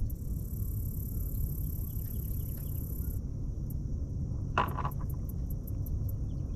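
Insects chirping in short, evenly repeated high pulses over a steady low rumble, with one brief knock about four and a half seconds in.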